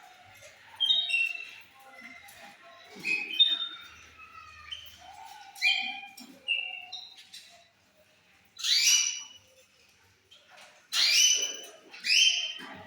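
Lovebirds chirping in short high calls, with a few louder, harsh squawks in the second half.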